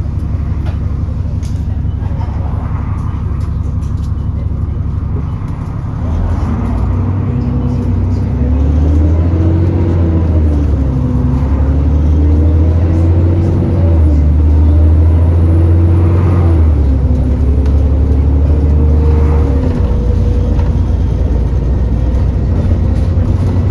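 Alexander Dennis Enviro400 E40D bus's diesel engine, heard on board: it runs steadily for about six seconds, then the bus pulls away under load. The engine note rises and drops back several times as the gears change, with a higher whine climbing slowly above it, the sound the title calls a loud hoover. The load eases near the end.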